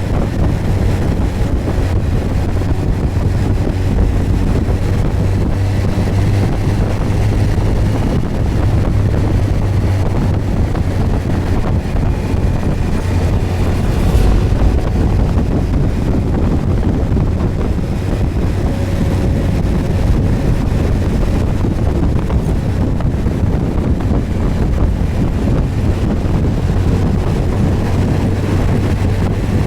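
Suzuki GSX1250FA's inline-four engine running steadily while the motorcycle is ridden, mixed with heavy wind buffeting on the microphone.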